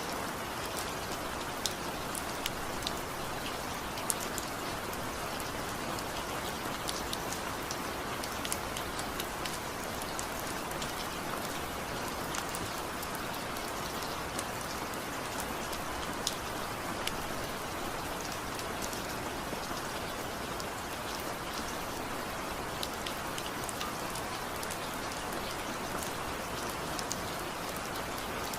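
Steady rain falling, a constant hiss with many sharp individual drop ticks scattered through it, without thunder.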